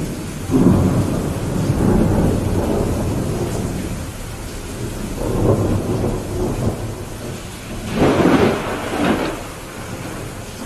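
Steady rain with rolling thunder. A long rumble starts about half a second in and fades over a few seconds, a softer rumble comes in the middle, and a sharper, louder peal comes near the end.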